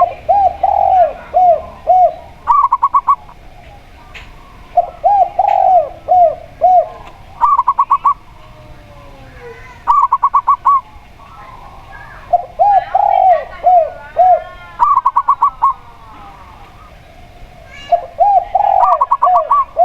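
Zebra dove and spotted dove cooing in turn. Short bursts of rapid, higher coos alternate with slower series of lower, curving coos, and the phrases repeat every few seconds.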